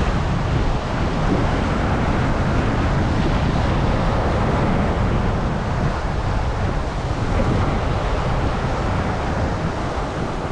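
Wind buffeting the microphone in a steady, loud rumble.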